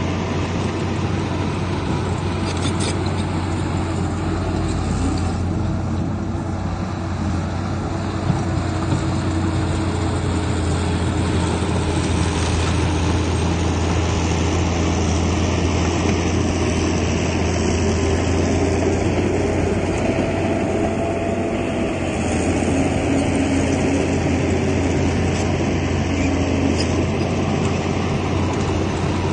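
Komatsu bulldozer's diesel engine running steadily at working load, with a deep low hum and a continuous mechanical din, and two small clicks about eight seconds in.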